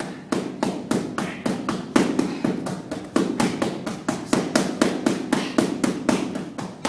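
Boxing gloves striking hand-held punching pads in a fast, steady run of jab-cross punches, about three sharp smacks a second.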